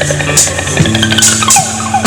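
Live band playing an instrumental passage: steady bass notes and light percussion hits under a long held high note that slides downward in pitch about a second in.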